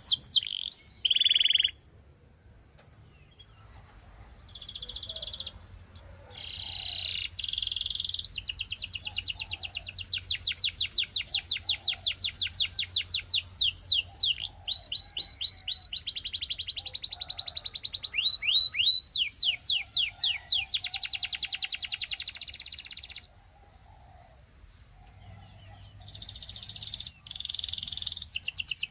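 Canary singing, a Russian song canary: long runs of fast trills of rapidly repeated notes alternating with held whistled tones, broken by short quiet pauses about two seconds in and again about three-quarters through.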